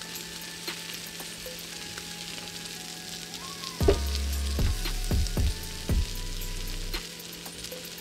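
Salmon and vegetables sizzling on a stovetop griddle pan, with clicks and scrapes of tongs turning the food. The handling gets louder from about four to seven seconds in.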